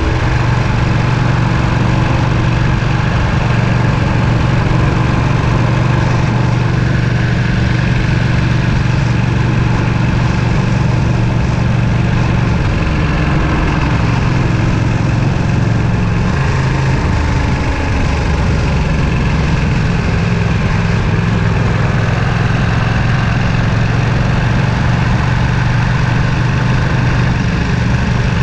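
Ducati Panigale V2's twin-cylinder engine running at fairly steady revs, its note wavering briefly about halfway through before settling again.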